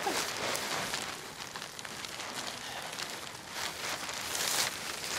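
Creek water splashing and running as someone wades through it, with a few sharper splashes near the end.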